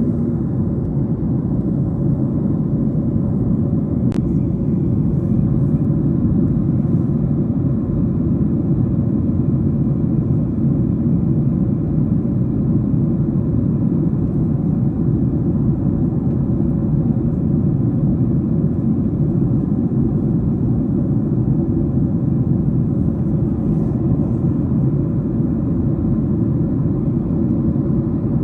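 Steady cabin rumble inside a Boeing 737-700 in flight: engine and airflow noise heard from a window seat. One faint click comes about four seconds in.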